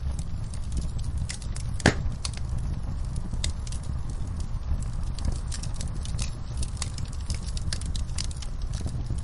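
Campfire burning, with a steady low rumble of flames and irregular sharp crackles and pops of burning wood, one louder pop about two seconds in.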